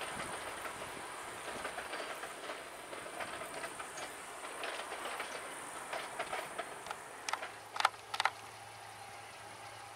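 Distant narrow-gauge diesel passenger train running along the line, its wheels ticking over the rail joints, the sound slowly fading as it draws away. Near the end a few sharp loud clicks, then a steady faint hum.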